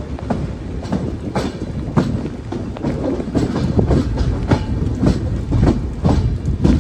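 Train running along the track: a steady low rumble with irregular clatter and knocks of the wheels over the rails.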